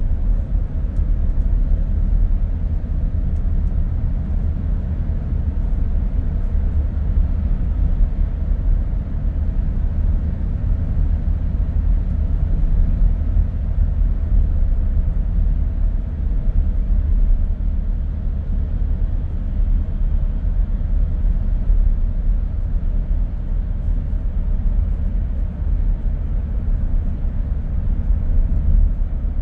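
Steady road noise of a car driving along a street: a low, even rumble of tyres and engine with no sudden events.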